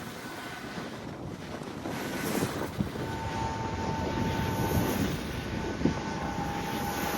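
Large wind turbine running, its blades whooshing through the air with a swell about every two and a half seconds, over wind noise on the microphone. A steady whine joins about three seconds in.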